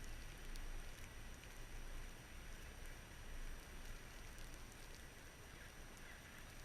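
Faint, steady blizzard ambience: wind noise with a fluctuating low rumble and a few faint ticks.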